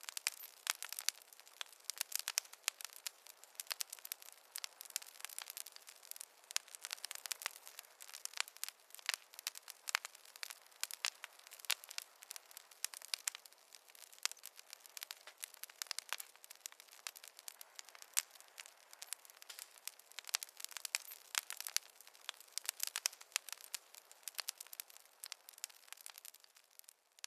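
Wood fire in a fireplace crackling, with many sharp, irregular pops over a soft hiss; it fades away near the end.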